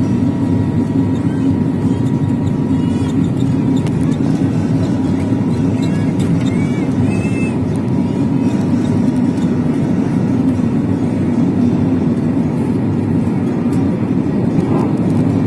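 Steady low drone of an airliner's jet engines and airflow heard inside the passenger cabin, with a faint steady whine on top.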